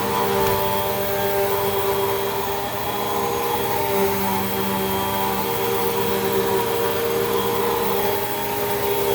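Hoover WindTunnel 2 Rewind upright vacuum cleaner running steadily, a motor whine over a rushing airflow, its pitch shifting slightly a few times as it is worked over the floor.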